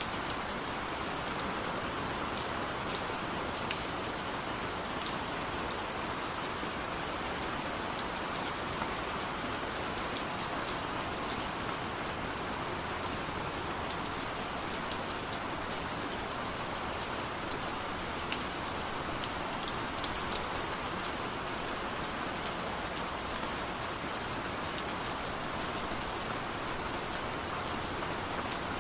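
Steady rain falling, an even hiss with many small drop ticks and patters on a surface.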